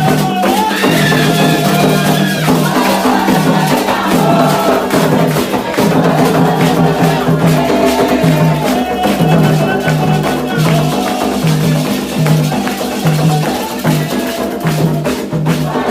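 Candomblé ritual chant: voices singing a repeating melody over a steady beat of hand drums, with the shaking of rattles throughout.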